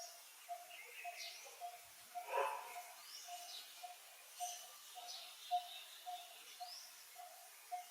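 Birds calling in forest: one repeats a single short low note about twice a second, over scattered higher chirps and sweeping whistles. A louder call stands out about two and a half seconds in.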